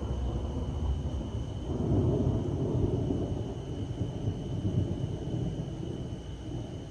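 Thunder rumbling, swelling about two seconds in and then slowly fading away over the next few seconds.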